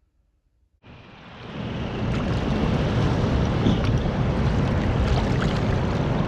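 Heavy rain pouring down, a dense steady rushing noise that cuts in suddenly about a second in and stays loud.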